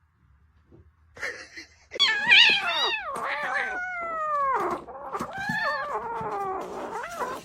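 A domestic cat meowing loudly in a run of drawn-out, yowling calls, each sliding down in pitch, starting about two seconds in.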